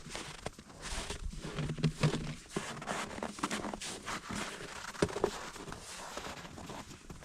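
Footsteps crunching on snow and ice: a run of irregular short crunches.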